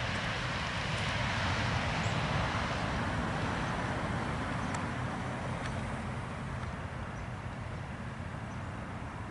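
Steady road and engine noise of a car driving along, easing off slightly toward the end.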